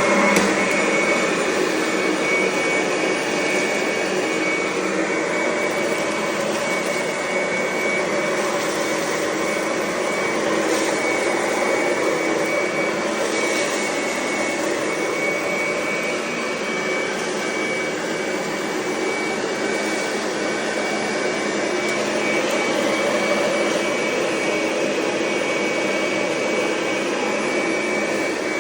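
Vacmaster Ultralight upright vacuum cleaner running steadily, with a constant high whine over its motor noise. A few short crackles come through in the middle as cracker crumbs are sucked up.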